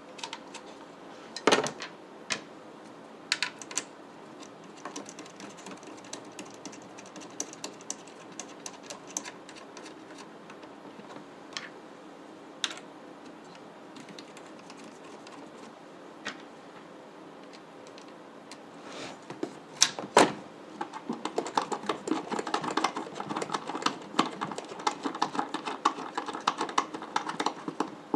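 Small clicks and taps of the CPU cooler's mounting standoffs being screwed by hand onto the backplate bolts behind the motherboard, with two louder knocks, one about a second and a half in and one about twenty seconds in, and a run of rapid clicking over the last several seconds.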